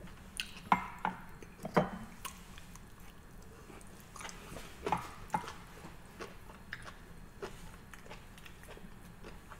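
A person chewing a mouthful of sushi roll, with wet mouth smacks and clicks that come most thickly in the first two seconds and again about four to five seconds in, then thin out.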